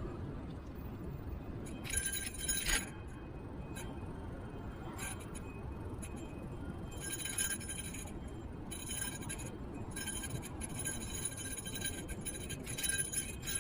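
Electric kick scooter riding over the road: a steady low rumble of tyres and wind, broken by several bursts of bright metallic clinking and rattling as the scooter goes over rough patches.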